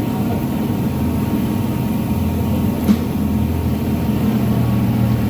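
An engine idling with a steady low hum, with a single sharp click about three seconds in.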